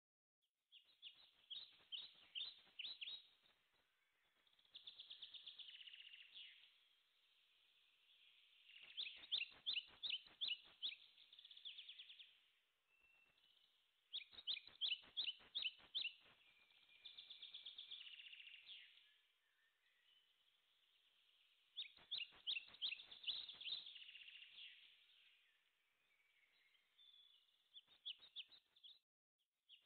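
Songbird singing: phrases of rapid, high chirps and trills, one every few seconds, with quieter warbling between them.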